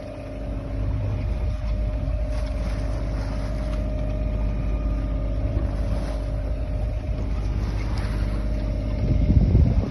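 A sailing yacht's auxiliary engine running steadily under power with an even, pitched drone, and a louder low rumble near the end.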